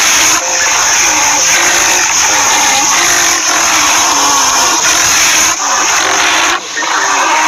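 Rhinoceros grunting: a continuous run of low, wavering grunts, with a brief drop near the end.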